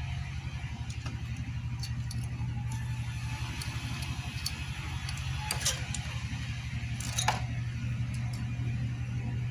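Light metallic clinks and taps of hand tools and metal engine parts being handled during a motorcycle engine teardown, with a louder clink about five and a half seconds in and the loudest about seven seconds in, over a steady low machine hum.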